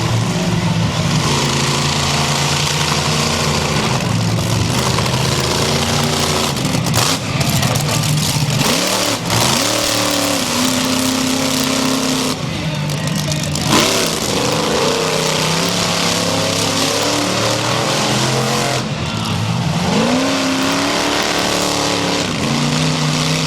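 Monster truck engine running loud and revving, its pitch climbing sharply twice, about a third of the way in and again near the end.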